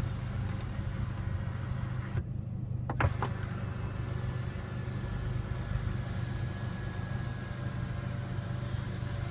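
Electric motor of a car's power panorama roof whining faintly and steadily for about five seconds, starting with a click about three seconds in. A steady low hum runs underneath it in the cabin.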